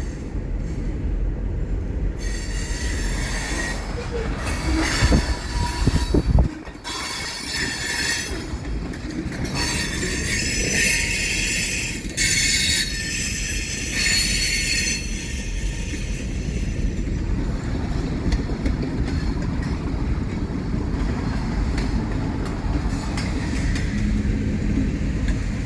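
Train rolling past with its steel wheels squealing against the rail in repeated high bursts over a steady low rumble. The squealing dies away about two-thirds of the way through, leaving the rumble of the passing cars.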